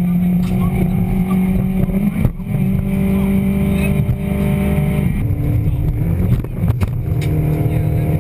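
Polonez 2000 Rally car's engine running hard at steady high revs, heard from inside the cabin. There are brief breaks in the engine note for gear changes about two seconds in and again about five seconds in, and a few sharp knocks shortly after.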